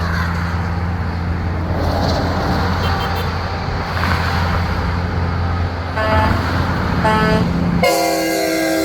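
Big-rig truck engines running in a steady low drone as the convoy passes, with two short truck air-horn blasts about six and seven seconds in. Music cuts in abruptly just before the end.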